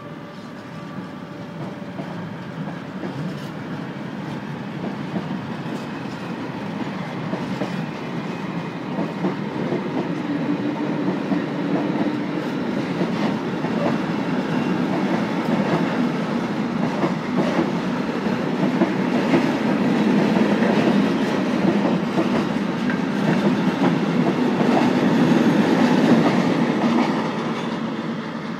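Freight train of tank wagons behind an SBB Cargo electric locomotive rolling past: a steady rumble of wheels on rail with clickety-clack over the joints, growing louder and then easing off near the end.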